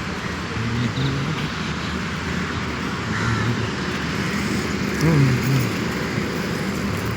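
Steady outdoor background noise like distant road traffic, with short low pitched sounds coming and going over it.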